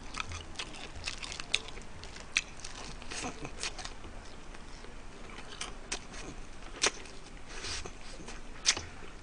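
Close-miked chewing of fried chicken thigh meat: irregular wet mouth smacks and clicks, with a couple of sharper smacks near the end.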